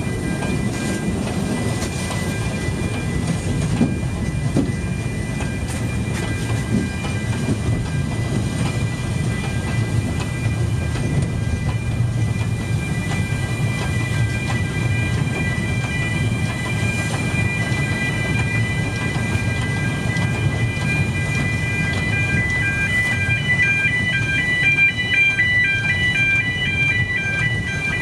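Welsh Highland Railway narrow-gauge train running slowly, heard from an open carriage: a steady low rumble of wheels and carriage, with a faint steady high whine over it. For the last few seconds a pulsing, alternating beeping joins in.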